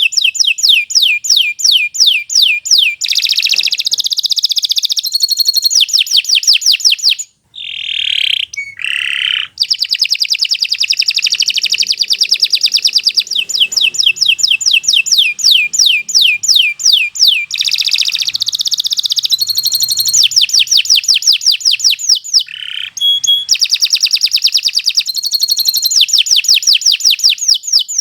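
Domestic canary singing a long, loud song: fast trills of rapidly repeated down-sweeping notes that change speed from phrase to phrase. A few lower, drawn-out notes come after a brief pause about seven seconds in.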